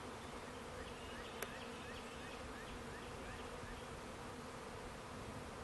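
A swarm of honeybees flying in the air, a steady buzzing hum.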